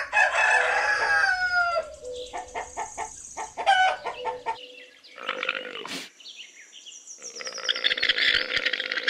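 Rooster crowing: a long crow falling in pitch at the start and another near the end, with short clucks in between.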